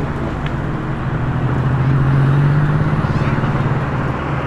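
A car's engine pulling past at low speed, its low drone growing louder to a peak about two seconds in, then fading as it moves away.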